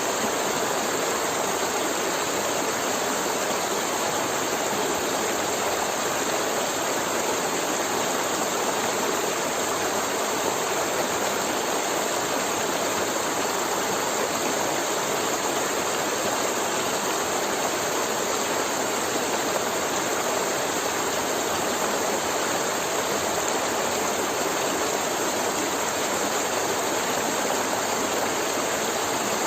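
Forest river flowing over rocks: a steady rush and gurgle of running water, unchanging throughout.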